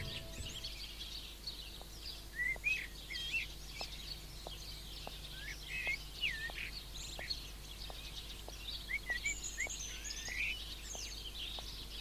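Songbirds chirping and twittering in short, high, quick calls, with light even taps about twice a second underneath.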